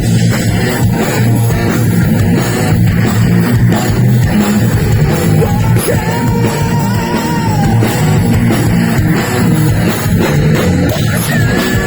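A heavy metal band playing live and loud, with electric guitar over drum kit and bass. About six seconds in, a long held note bends and wavers.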